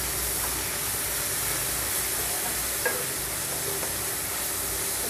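Julienned chicken strips sizzling as they fry in oil in a wok, stirred with a wooden spatula, with a brief tap of the spatula on the pan a little before three seconds in.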